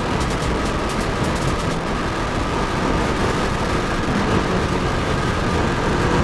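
Kawasaki Ninja 400 parallel-twin motorcycle being ridden at a steady speed, its engine running under heavy wind noise on the rider's microphone.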